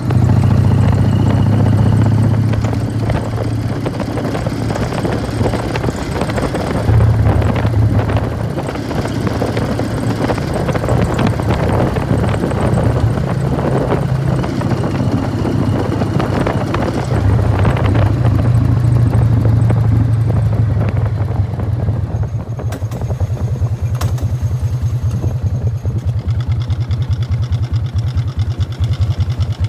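A 1999 Harley-Davidson Fat Boy's Evolution V-twin runs through Python mufflers while riding, its deep exhaust note swelling and easing as the throttle opens and closes. About two-thirds of the way through it drops to an even, pulsing idle.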